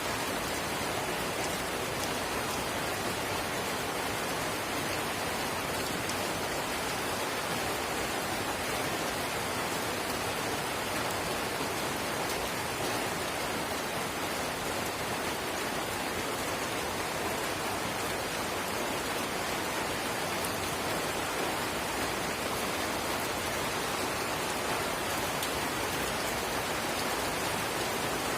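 Drizzle falling, a steady even hiss of fine rain with faint small drop ticks.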